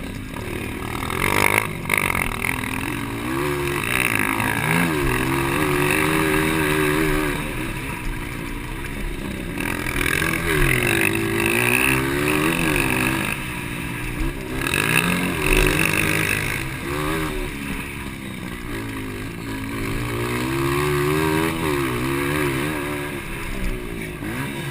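Motocross dirt bike engines of the 200cc class, revving up and falling off again and again as they accelerate and shift through the course. The pitch swings up and down every second or two.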